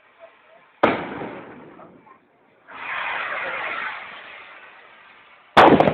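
Fireworks going off: two loud bangs, one about a second in and one near the end, each dying away over about a second, with a second or so of steady rushing noise between them.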